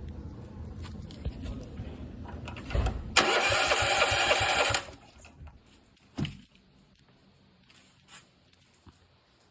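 A Honda GX270 single-cylinder engine running low and rough. About three seconds in it revs hard for a second and a half, then cuts out. A single thump follows about six seconds in.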